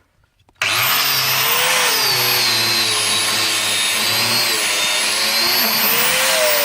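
Angle grinder with a worn-down cutting disc starting up about half a second in and cutting through the car's exhaust pipe, its whine dipping and rising as it loads up in the cut.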